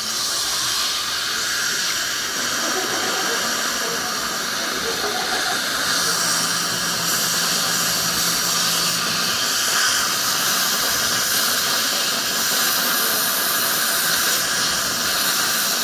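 Dental equipment hissing steadily during work on a tooth, a continuous high-pitched noise with a faint low hum for a few seconds in the middle.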